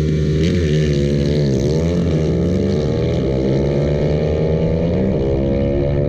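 Motorcycle engines running, the pitch wavering and dipping briefly, then climbing steadily over the last few seconds as the revs build.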